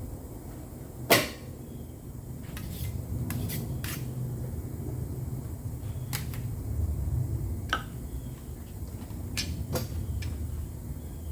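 Knocks and clicks from handling tools during body-filler work. There is one sharp knock about a second in, then scattered lighter taps and clicks over a low steady rumble.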